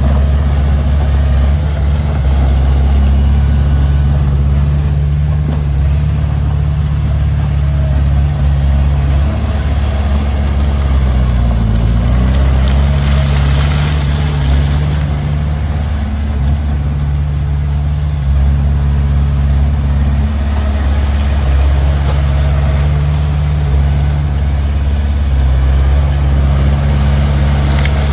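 Komatsu D20P bulldozer's diesel engine running steadily under work, its pitch dipping and recovering once about halfway through. A brief rushing, scraping noise follows the dip.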